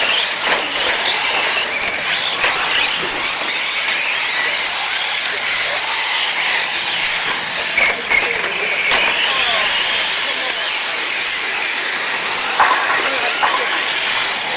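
Several radio-controlled race trucks running on the track together, their motors whining up and down in pitch as they accelerate and brake, with tyres scrabbling on the surface and a few sharp knocks.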